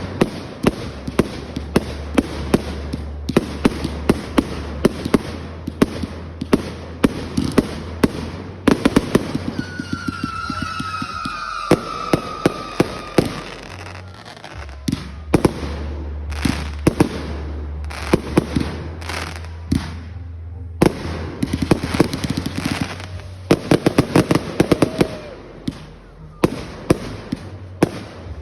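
Fireworks going off: a dense, uneven run of sharp bangs and crackles. About ten seconds in, a whistling firework gives a long whistle that falls slowly in pitch.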